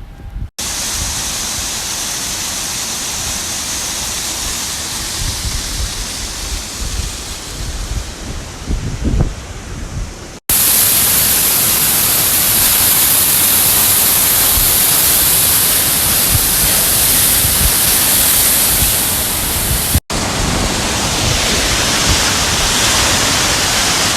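Steady rushing noise of rain falling, in three spliced takes that switch abruptly about ten and twenty seconds in; the middle take is the loudest and hissiest.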